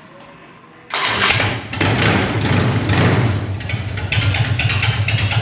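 A motorcycle engine comes in suddenly about a second in, is revved up and down, then runs on with an uneven, lumpy beat.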